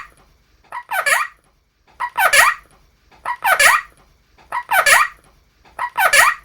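A parrot calling the same harsh, pitch-bending call five times, about once every 1.3 seconds.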